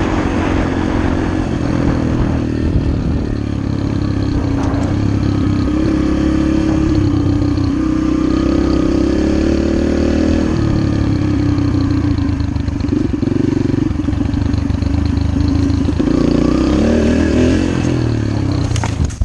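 Dirt bike engine running under way, its pitch rising and falling with the throttle and climbing near the end.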